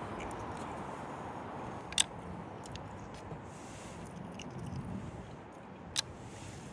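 Someone eating and chewing, with two sharp clicks about four seconds apart, over a steady background hiss.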